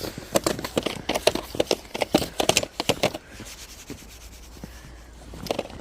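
Snow crunching in a quick run of crisp crunches, several a second, that stops about three seconds in, with one more crunch near the end.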